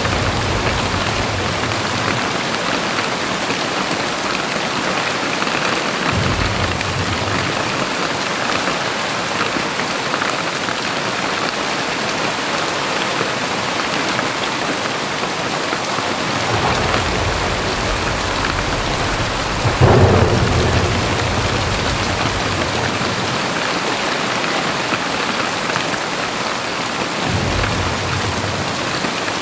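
Very heavy rain falling steadily, with several low rumbles rising and fading, the strongest about two-thirds of the way in.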